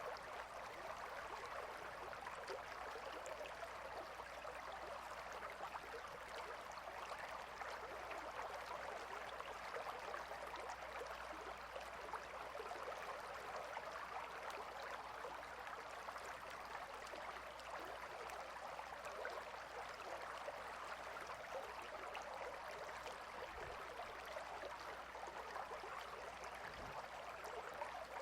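Gentle river flowing steadily: an even wash of running water with a fine trickling texture and no breaks.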